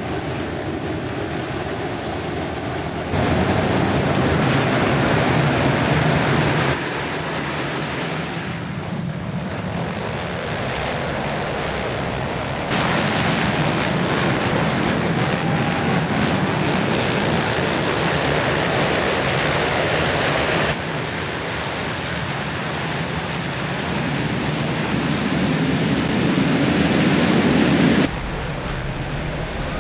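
Four-stroke motocross motorcycles racing, their engines running hard amid wind and track noise. The sound changes level abruptly several times, about 3, 7, 13, 21 and 28 seconds in.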